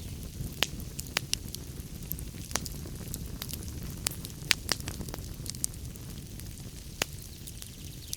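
Wood fire burning in a fireplace: a steady low rumble of flames with irregular sharp crackles and pops, several a second, a few louder snaps among them.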